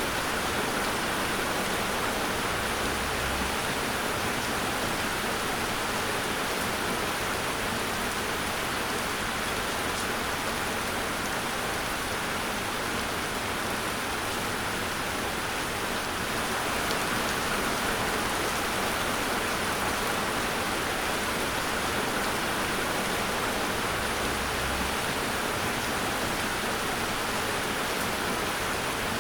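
Steady rain falling and pattering on a surface, an even hiss of drops without let-up.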